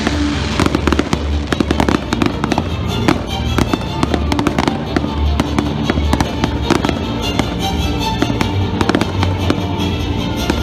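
Fireworks display: a rapid, continuous string of bangs and crackles from bursting aerial shells.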